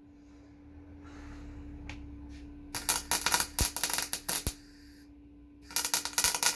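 Welder laying two short runs of weld on steel, each a burst of dense crackle lasting about a second and a half, over a steady low hum.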